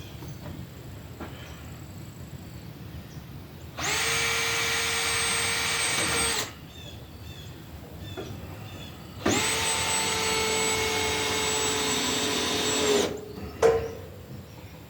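Power drill run twice, about two and a half seconds and then three and a half seconds, each time spinning up to a steady whine and winding down, as when driving screws into the coop's wooden framing. A sharp knock follows the second run.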